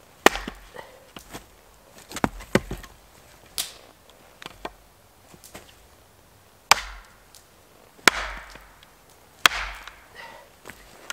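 White spruce wood being chopped with an axe: about seven sharp, cracking strikes at uneven intervals, each with a short splintering tail.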